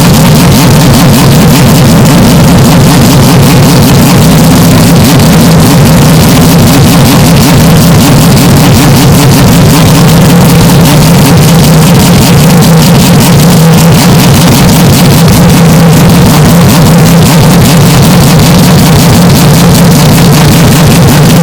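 Steady engine-like drone, heavily distorted and clipped at full volume, holding one pitch with no rise and fall of a passing car.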